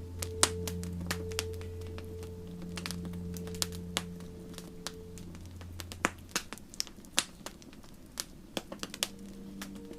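Wood campfire crackling, with sharp irregular pops, over soft sustained ambient music tones that fade out about halfway through; a new low chord comes in near the end.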